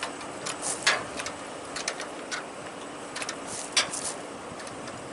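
Irregular sharp metal clicks and clanks from a car-tote hitch being pushed and lined up, over a steady mechanical hum.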